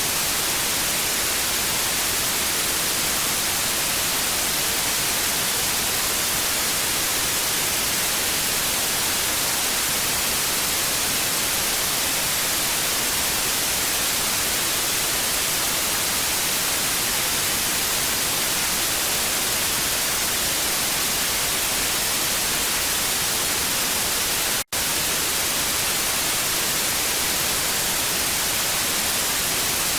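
Analog TV static: a steady, even hiss, brightest in the highs. It drops out for a split second once, late on.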